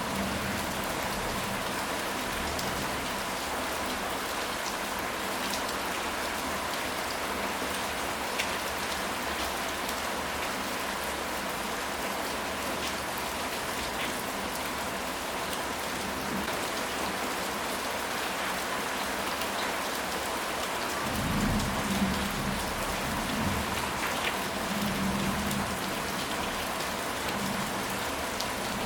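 Steady rain, an even hiss with scattered sharp drop ticks. About two-thirds of the way in, a low rumble of thunder swells for a few seconds.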